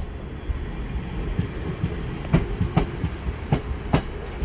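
South West Trains Class 444 Desiro electric multiple unit departing very slowly, with a low rumble and its wheels clicking over rail joints, the clicks coming in pairs.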